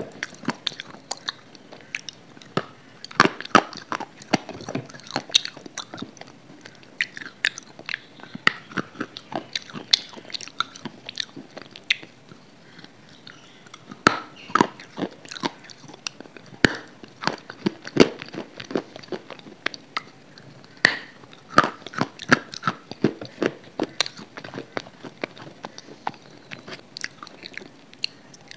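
Close-miked eating sounds from a person's mouth: chewing and biting, with many irregular sharp clicks, several a second.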